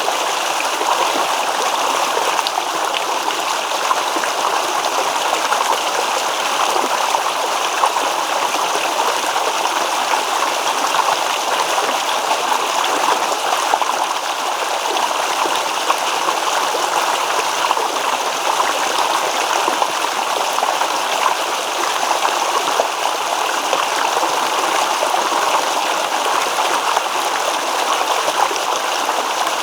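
Small stream babbling and rippling over stones, a steady, unbroken rush of running water.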